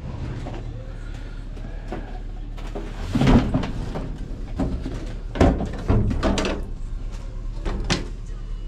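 Several knocks and clunks of hard objects being handled and set down over a steady low hum, the loudest about three seconds in.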